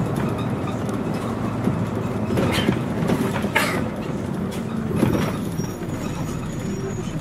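Scania CN113CLL city bus under way, heard from inside the cabin: its Scania DSC 11 diesel engine runs with a steady low rumble, and the body clatters and knocks a few times over the road.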